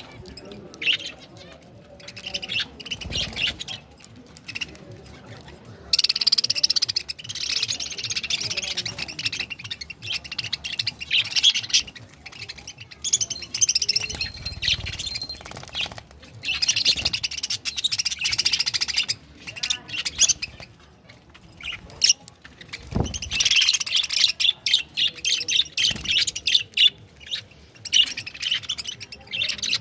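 Pet budgerigars chattering and squawking in bouts of rapid, high-pitched warbling, with short pauses between bouts and a few dull thuds.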